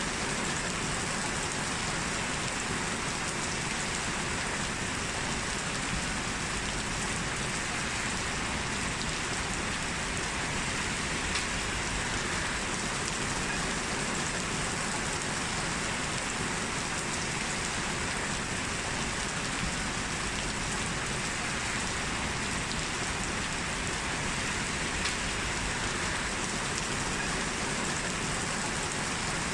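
Heavy rain falling steadily, an even hiss of rain with scattered drops hitting a surface.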